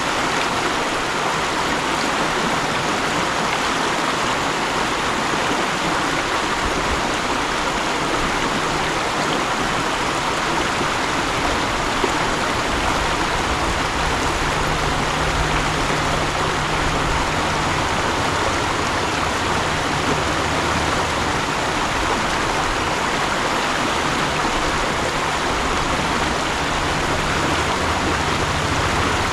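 Mountain stream running steadily, a constant rush of water with a low rumble underneath that comes and goes.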